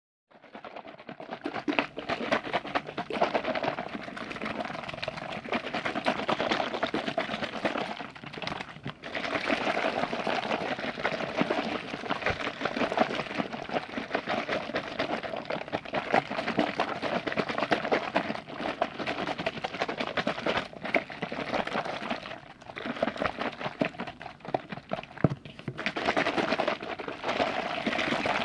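Close-up liquid sounds: a continuous wet, crackling churn of liquid, with brief lulls about eight and a half seconds in and again a few seconds before the end.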